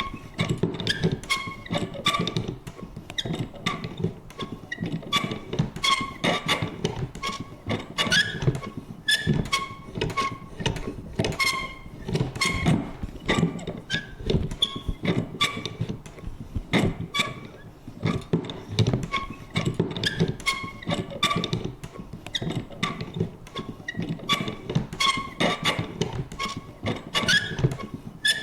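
Vintage paper punch worked over and over: a dense, steady run of clicks and thunks, several a second, with short high squeaky creaks among them.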